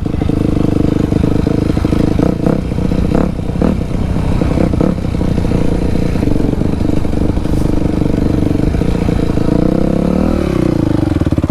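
Dirt bike engine running loud at fairly steady revs, with several rattling clatters in the first half. Its pitch sags and then climbs back near the end.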